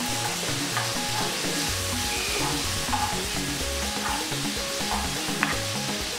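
Chicken strips and onion sizzling steadily in hot oil in a nonstick wok, stirred with a wooden spoon.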